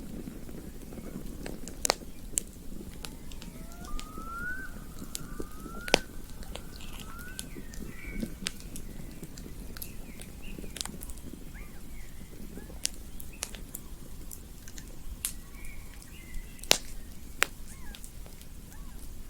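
Campfire crackling: scattered sharp pops and snaps over a low, steady rumble of burning wood. A bird gives a few short rising chirps about four to seven seconds in.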